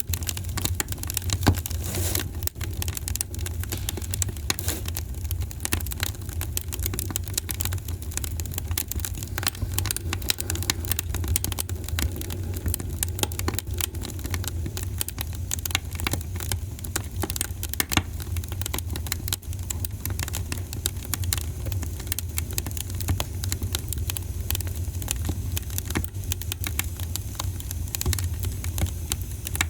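Wood fire crackling in a fireplace: a dense, irregular stream of small pops and snaps over a steady low rumble.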